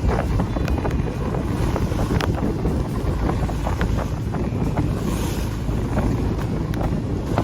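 Wind buffeting the microphone aboard a sailboat, over the rush of water and waves, with scattered light knocks.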